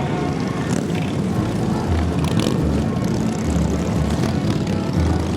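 Several motorcycle engines running together, a loud, steady mechanical sound with a throbbing low end.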